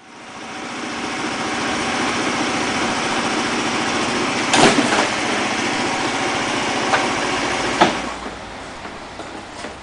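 Small moped scooter engine running steadily, building up over the first second. Sharp clicks come about halfway through and again near the end, after which it gets quieter.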